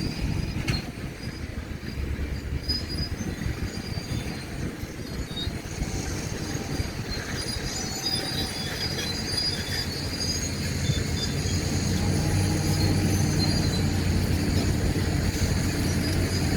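Caterpillar D7 crawler bulldozer on the move, its steel tracks squealing over the diesel engine's rumble. The engine grows louder about two-thirds of the way through.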